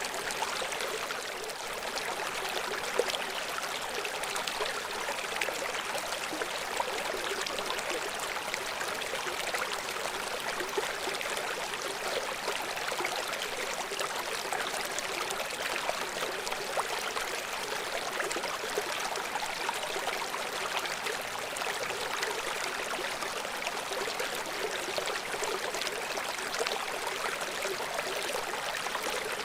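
A river stream flowing steadily over rocks. It makes a continuous bright rushing and splashing, with small splashes flickering through it.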